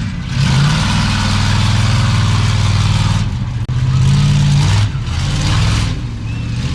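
Monster truck engine revving hard in several loud surges, the longest about three seconds, dropping back briefly between them.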